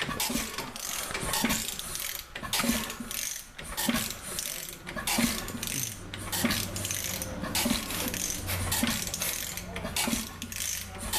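1905 Roberts two-cycle marine engine being turned over, knocking with a regular clack about once a second over a steady mechanical clatter. A low steady hum joins about halfway through.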